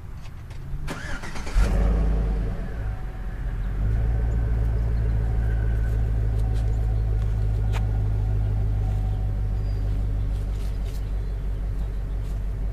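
2007 Chevy Tahoe's V8 engine cranking briefly and starting about a second and a half in, then settling into a steady idle.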